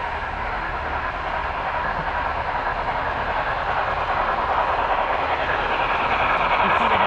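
HO scale model train running along the layout track: a steady rolling whir of wheels and motor that slowly grows louder as it comes closer.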